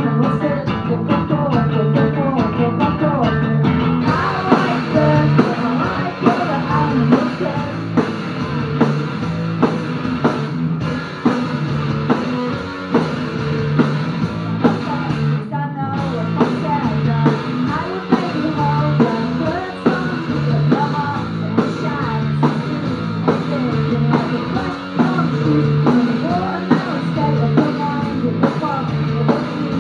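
A rock band playing live, with distorted electric guitar, drum kit and singing over a steady driving beat. The sound fills out with more cymbal and treble about four seconds in.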